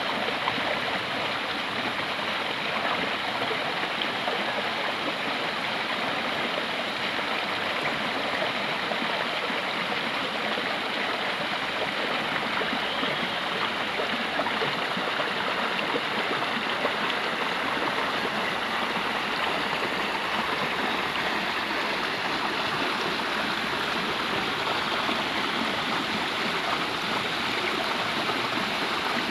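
Water of a stream running down a gentle waterfall, a steady, even rush that does not change.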